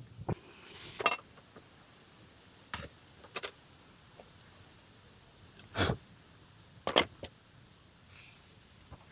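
A handful of sharp clicks and knocks, spaced a second or more apart, with the loudest near the middle and about seven seconds in; small hard objects being handled.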